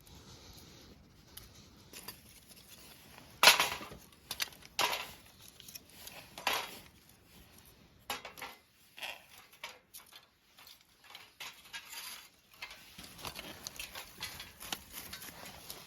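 Camp gear being handled: scattered clinks and knocks like cookware or utensils being moved, with three louder knocks in the first half and lighter tapping after.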